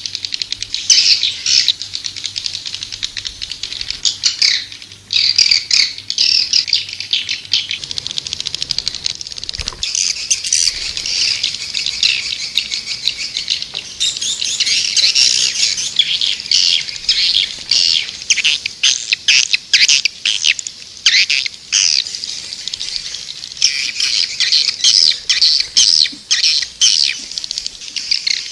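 Swiftlets twittering in a dense, continuous stream of rapid high chirps, with a brief lull about four seconds in. This is the kind of swiftlet call sound used as a lure call.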